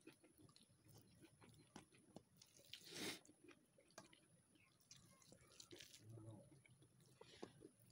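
Faint close-up chewing and small mouth clicks and squishes of a person eating rice with fried beans and eggplant by hand, with a brief louder noise about three seconds in.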